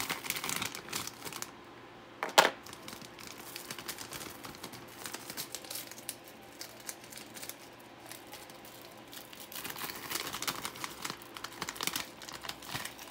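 Plastic packaging from a CPU cooler box crinkling and rustling as its parts are handled, in two stretches at the start and near the end, with one sharp clack about two and a half seconds in and small scattered clicks between.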